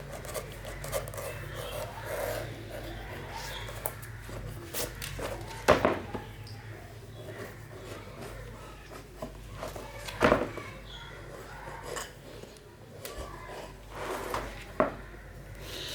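Hand-working noises in a small room: scattered rubbing and light knocks, with two sharper knocks about six and ten seconds in, over a steady low electrical hum.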